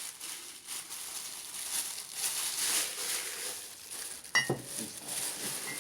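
Packaging material crinkling and rustling as mugs are handled and unpacked, with a single sharp clink that rings briefly about four seconds in.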